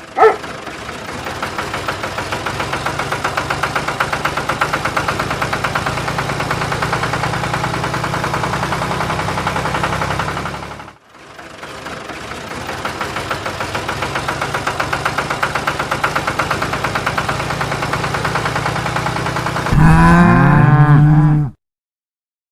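An engine running with a rapid, even putter, fading out about eleven seconds in and building up again. Near the end a cow moos loudly for about two seconds, then the sound cuts off to silence.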